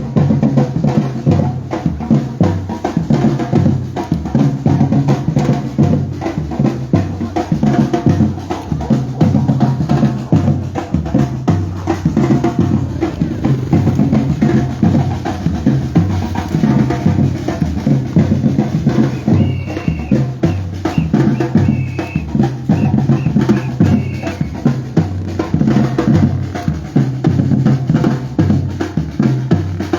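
Batucada percussion band playing loud, continuous drumming: deep bass drums under a dense, steady snare-drum rhythm.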